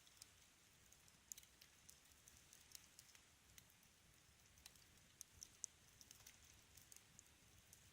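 Wood fire in a fireplace crackling faintly: irregular sharp pops and snaps over a soft hiss.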